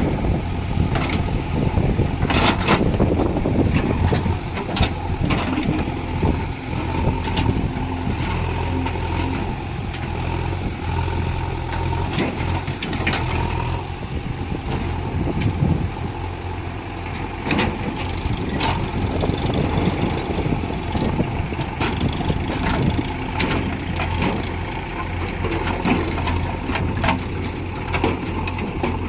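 Diesel engine of a JCB backhoe loader running steadily while it loads stone into a tractor tipper trailer, with scattered clanks and knocks throughout.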